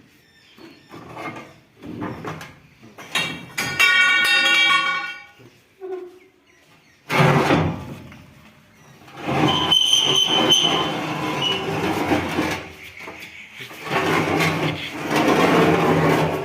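Metal parts of a combine harvester's threshing basket (concave) knocking, scraping and clanking as it is worked loose and pulled out. There is a steady screech about four seconds in, and a longer stretch of dragging and clatter in the second half.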